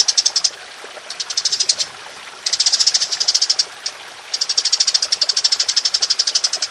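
Cage songbird singing high, fast rattling trills in repeated bursts. These are the machine-gun-like 'tembakan' phrases used as masteran training song. There are four bursts, and the longest begins about four seconds in.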